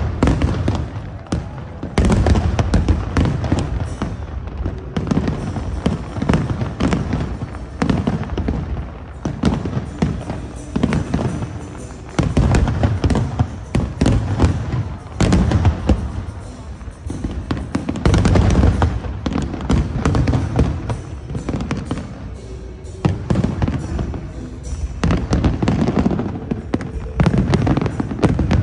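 Aerial fireworks display: a dense run of shell bursts with deep booms and sharp cracks, coming in waves of loudness with brief lulls between volleys.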